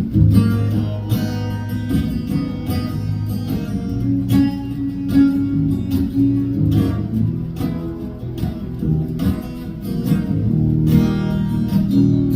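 Acoustic guitar strummed, playing the instrumental intro to a song, with no singing yet.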